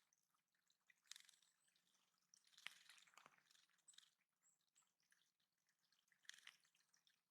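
Faint water splashing and dripping in a small backyard bird pond fed by a trickling stream, in a few short bursts about a second, three seconds and six seconds in.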